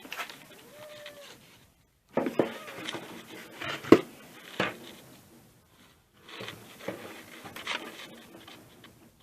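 Scattered knocks and clicks of an air compressor pump and its metal parts being handled while its oil is drained, with one sharp click about four seconds in.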